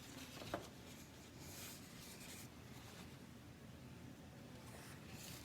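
Near silence: faint room tone with a small click about half a second in.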